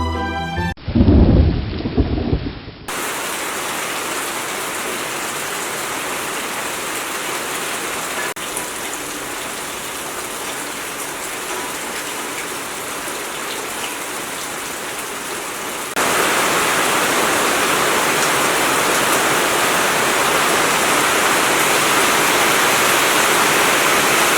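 A loud low rumble of thunder near the start, then steady monsoon rain falling in an even hiss. The rain becomes heavier and louder about two-thirds of the way through.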